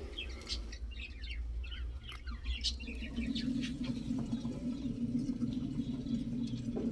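Small cage birds chirping, with many short high chirps. A low steady hum comes in about three seconds in.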